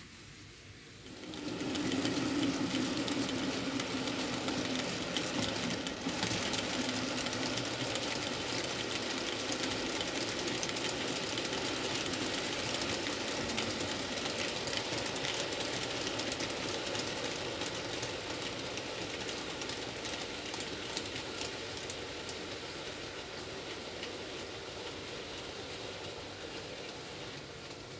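N gauge model train running on the layout track: a steady whir from the small locomotive motor with fine, fast clicking from the wheels on the rails. It starts up sharply about a second and a half in and eases off slowly toward the end.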